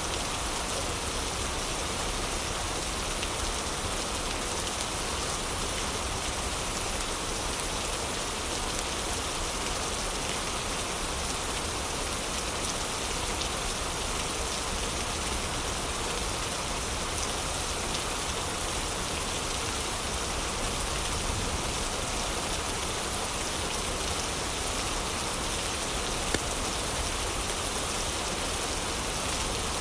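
Heavy rain falling steadily, mixed with a fireplace's low crackling, with one sharp crack about 26 seconds in.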